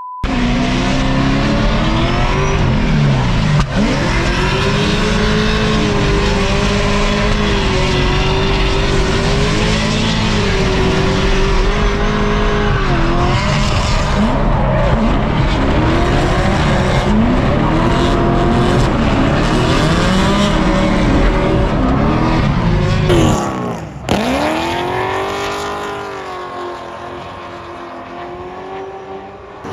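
Supercharged LS7 V8 of a C6 Corvette Z06 revving hard up and down through a drift, over the noise of sliding, squealing tyres. About 23 seconds in the sound changes abruptly and the engine note sweeps down and back up.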